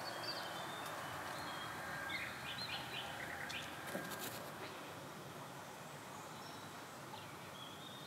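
Small birds chirping in short calls through the first half, over a steady background hiss. A few faint clicks about four seconds in.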